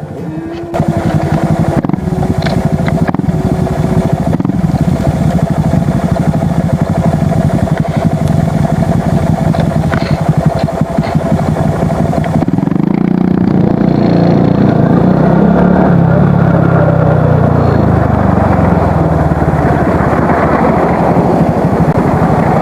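Single-cylinder Honda Super Cub–based motorcycle engine running through a BEAMS aftermarket muffler, a steady exhaust beat that starts suddenly. About halfway through the sound turns louder, with the engine pitch rising and falling as it revs under way.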